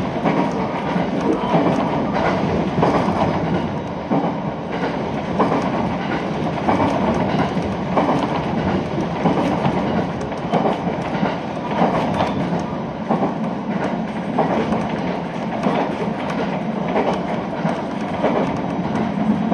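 Running noise of a two-car local train heard from inside the passenger car: wheels rolling steadily on the rails, with repeated short clacks over rail joints.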